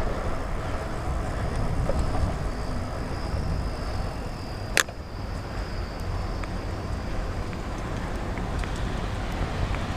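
Steady rushing wind and road noise from riding a bicycle, with a single sharp click about halfway through.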